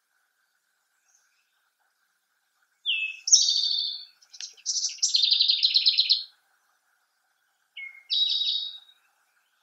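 A songbird singing three short phrases, each a brief sliding note followed by a fast run of rapid chirped notes, the middle phrase the longest.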